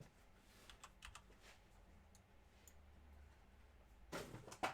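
A few faint, sparse clicks from a computer keyboard, with a brief louder rustling noise near the end.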